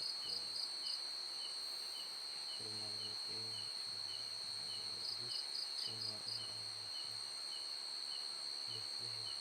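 Night insects, crickets, trilling steadily at a high pitch. A softer chirp repeats about twice a second, and short runs of faster pulses come at the start and again about five seconds in.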